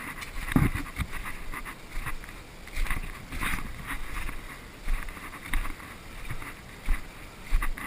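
Irregular rustling and dull thumps, about one or two a second, of a person moving on foot with clothing and gear brushing against the microphone, the heaviest thump about half a second in.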